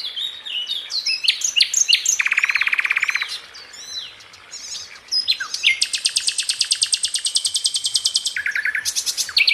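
Songbirds singing: a busy run of short, sweeping chirps and whistles, with a rapid lower trill about two seconds in and a longer, higher rapid trill lasting about two and a half seconds from around the middle.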